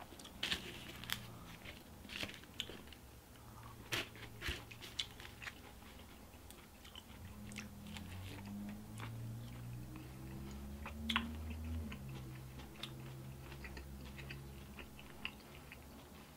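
A person biting into and chewing a slice of pizza, with sharp crunches and clicks from the crust, busiest in the first few seconds.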